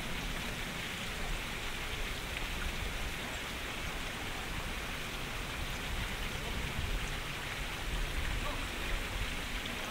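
Wind buffeting the microphone, an uneven low rumble, over a steady even hiss.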